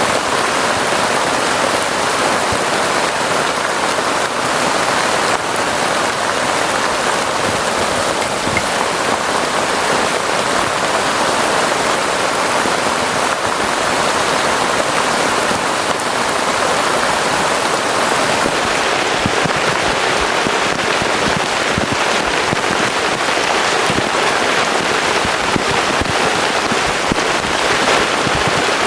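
Heavy rain falling steadily, a dense patter of drops hitting surfaces without letup.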